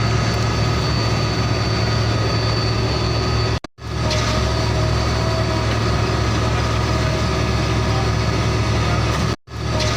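Heavy truck engine idling steadily with a low hum. It cuts out abruptly for a split second twice, about four seconds in and again near the end, then carries on.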